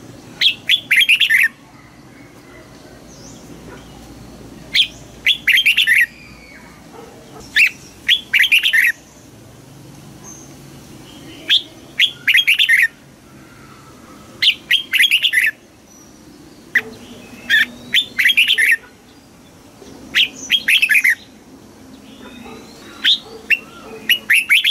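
Red-whiskered bulbul singing, eight short, quick, warbling phrases, each about a second long, repeated about every three seconds.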